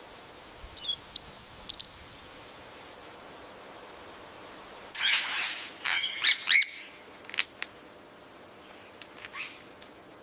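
Birds calling: a quick run of high chirps about a second in, then a louder cluster of harsher calls around the middle, and a few faint calls near the end, over a steady background hiss.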